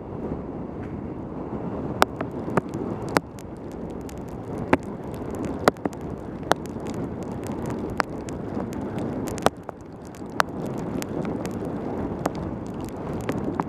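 Wind buffeting a helmet camera's microphone with tyre and road rush from a mountain bike descending fast on a wet road, with sharp taps and clicks at irregular moments throughout.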